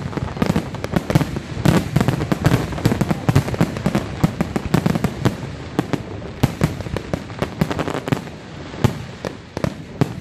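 Aerial fireworks display going off in a dense barrage: many sharp bangs and crackles of bursting shells overlapping, several a second, thinning out a little near the end.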